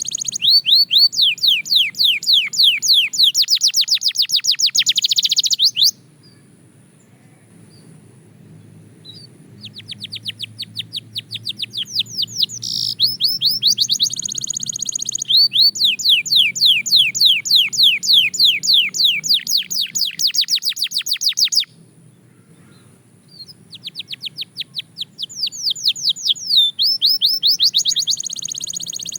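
Canary singing: three long phrases of fast, evenly repeated falling notes strung into trills, with a pause of a couple of seconds after the first and second phrases.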